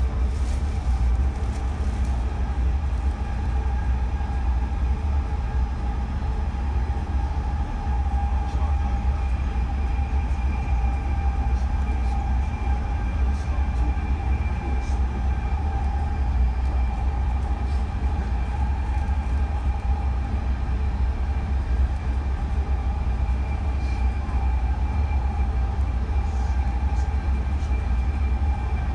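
BART train car running along the track, heard from inside the car: a steady low rumble with a steady whine over it.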